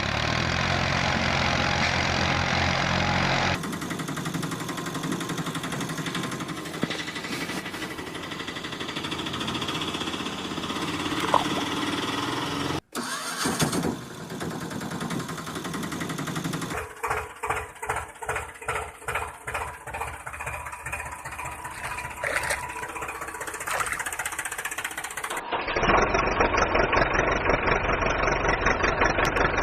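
Vehicle engine sounds running through several edited segments that change abruptly, with a rhythmic chugging pulse of about two beats a second in the middle stretch.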